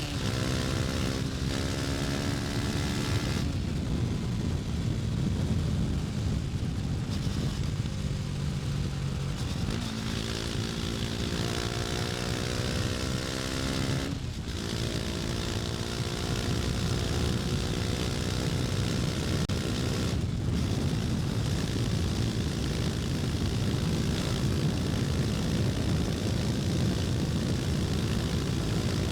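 KTM Duke 250's single-cylinder engine on the move, climbing in pitch as it accelerates and dropping briefly at gear changes: about a second in, at about three and a half seconds, at about fourteen seconds and at about twenty seconds. In the second half it holds a steadier note under a constant rush of wind noise.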